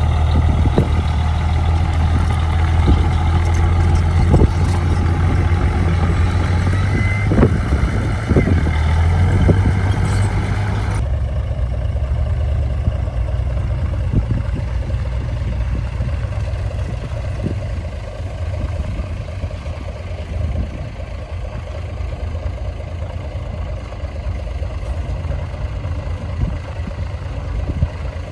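Heavy diesel earthmoving machinery running, with a strong steady low engine note and scattered knocks and clanks. About eleven seconds in, the sound changes abruptly to a quieter, thinner engine running on.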